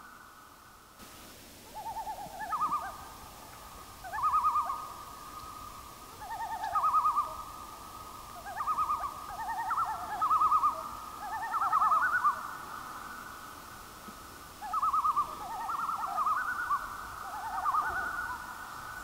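Birds calling: repeated short rattling calls, often two voices at different pitches overlapping, coming every second or two.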